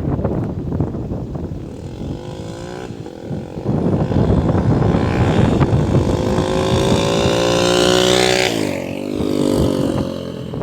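Honda CB300's single-cylinder engine through an open straight-pipe exhaust with no muffler, accelerating hard through the gears. The pitch climbs briefly and drops at a shift, then climbs for several seconds before dropping sharply about eight and a half seconds in, and starts climbing again.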